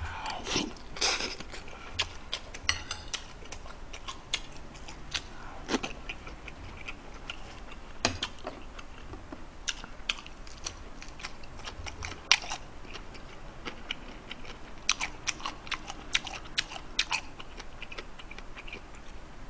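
Close-up eating sounds: chewing with wet smacks and many sharp mouth clicks scattered through, a few louder ones near the start, about midway and near the end.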